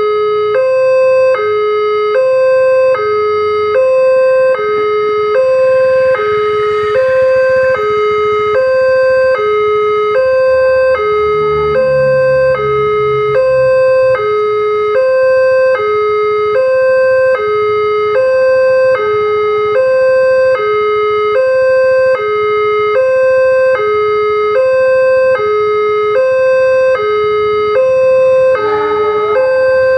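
Railway level-crossing warning alarm sounding a loud two-tone chime: a higher and a lower tone alternate evenly, about every three-quarters of a second, warning that a train is approaching.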